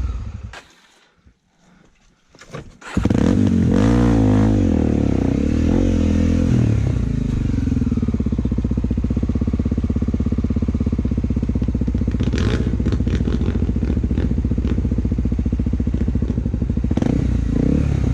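Trail motorcycle engine revving up and down, dropping away for about two seconds near the start, then revving again and settling to a steady, pulsing idle. A few brief clicks come later on.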